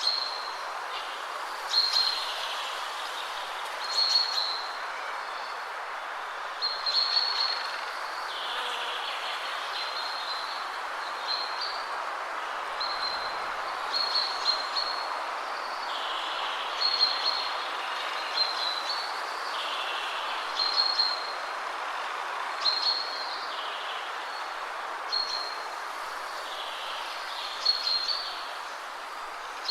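Wind rushing steadily through trees, with a songbird repeating a short, high song phrase about every two seconds over it.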